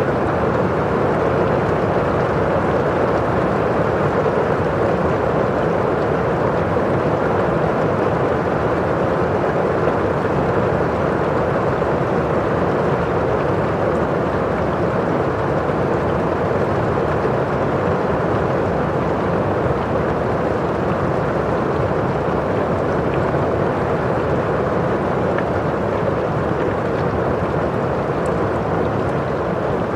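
Steady rain falling on a window pane and outside, a constant even rushing hiss with no breaks.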